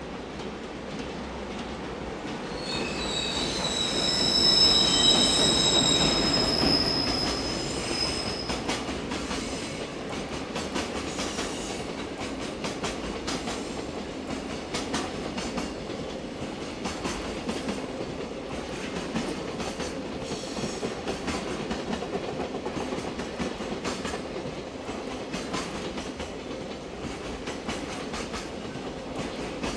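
Freight train hauled by an EF510 electric locomotive passing at speed: the locomotive goes by about five seconds in with a high steady whine, then the freight wagons follow with a continuous rumble and a rhythmic clickety-clack of wheels over rail joints.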